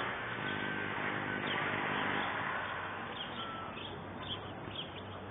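Birds chirping in short, repeated calls over a steady background noise with a faint low hum.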